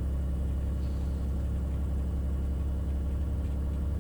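Beechcraft Bonanza's piston engine and propeller running, a steady low drone heard inside the cockpit.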